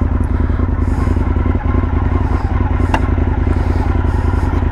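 Motorcycle engine idling steadily, with a fast, even pulsing rumble.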